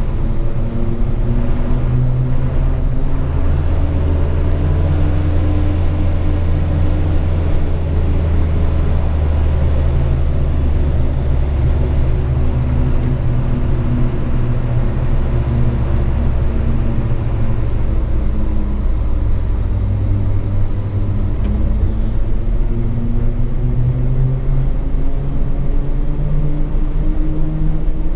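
Hino 500 FM 260 JD truck's six-cylinder diesel engine heard from inside the cab while driving, a deep steady drone whose pitch rises and falls gently with the throttle.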